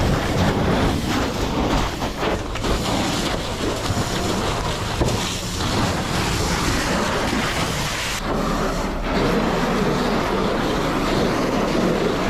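Strong wind gusting over the microphone: a loud, continuous rushing roar that shifts briefly about eight seconds in.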